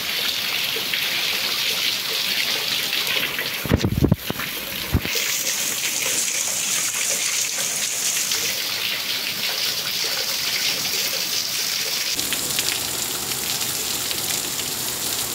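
Heavy rain pouring down, with water running off the roof edge in streams and splashing, a steady dense hiss. Two brief low thumps stand out about four and five seconds in.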